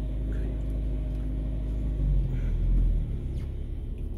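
Car engine and low rumble heard from inside the cabin; the rumble grows louder for about a second midway as the car moves off slowly.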